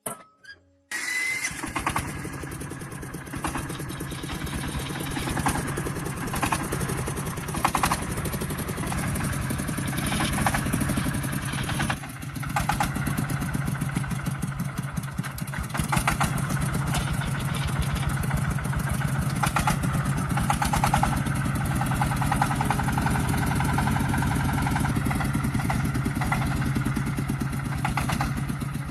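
A tractor engine starts about a second in and then runs steadily, with a brief dip in level near the middle.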